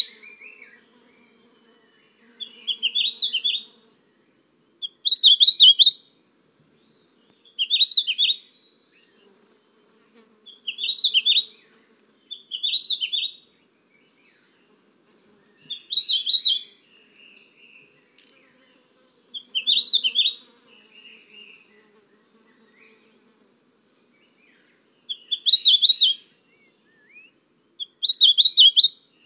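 A songbird singing short, chirping phrases of about a second each, repeated every two to three seconds with pauses between.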